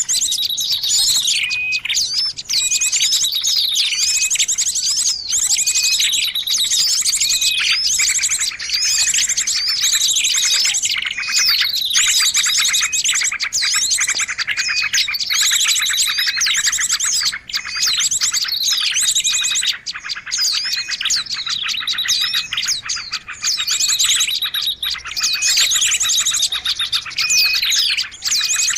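Busy chorus of small birds chirping and trilling without a break, fast overlapping trills mixed with repeated falling whistled notes. It is a noisy bird-lure (pikat) recording, played to draw birds in.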